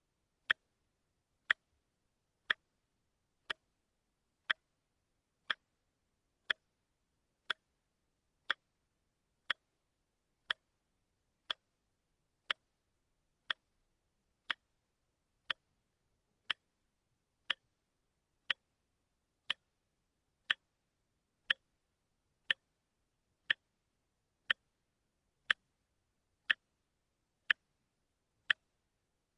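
Watch ticking steadily, one sharp, even tick about every second.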